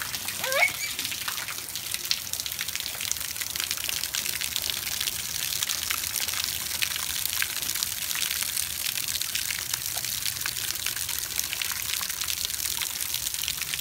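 Steady rain falling, a constant hiss dotted with many small drop ticks. A brief rising squeal sounds about half a second in.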